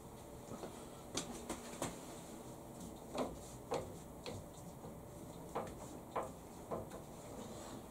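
Irregular light clicks and knocks, about ten spread over several seconds, from parts being handled at a workbench.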